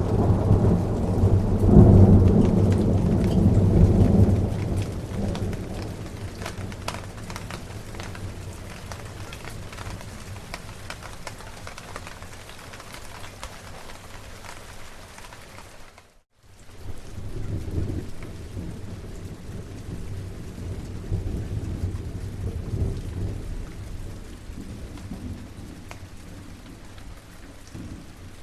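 Steady rain with rolling thunder. A loud low rumble at the start dies away over the first few seconds. The sound cuts out completely for a moment about halfway through, then softer thunder rumbles on under the rain.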